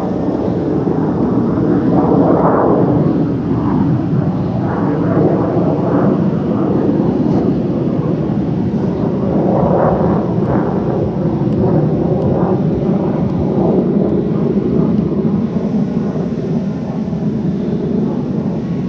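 Panavia Tornado jet's twin RB199 turbofans heard from the ground as it flies over: a deep, rumbling roar with a crackling edge that swells and wavers, easing slightly near the end.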